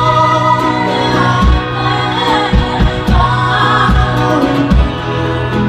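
A band's song: several singing voices held in harmony, without clear words, over a low drum beat.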